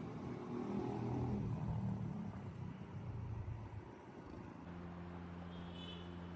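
Outdoor background noise with a low rumble, which changes after about four and a half seconds to a steady low machine-like hum.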